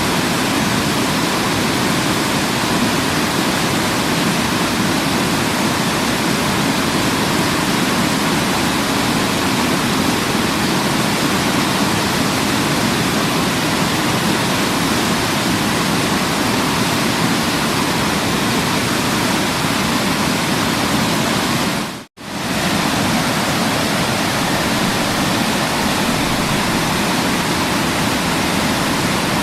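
Waterfall: a steady, even rush of falling water. It cuts out for a split second about 22 seconds in, then comes straight back.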